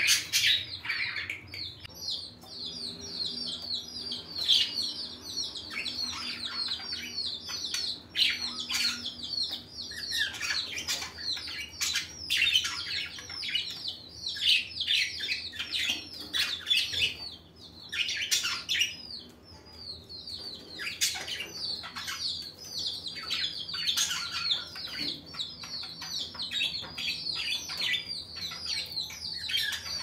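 Many small birds chirping without a break, a dense run of quick, high, overlapping chirps with a few short lulls.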